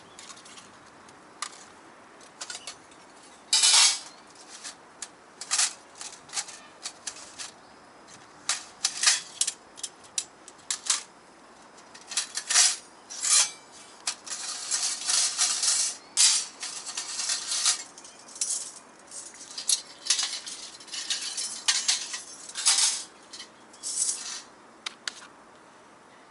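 Thin metal pieces clinking and clattering irregularly as they are handled, with a longer stretch of scraping and rattling about halfway through.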